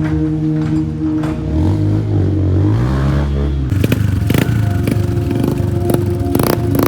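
Motor vehicle engines running on the road, one rising in pitch as it revs. About halfway through, the sound changes abruptly to a rougher, clattering engine with many short knocks.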